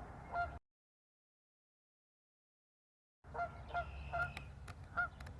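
Canada geese honking out on a pond: a couple of short honks, a dead-silent gap of about two and a half seconds, then several more honks spaced a half second to a second apart.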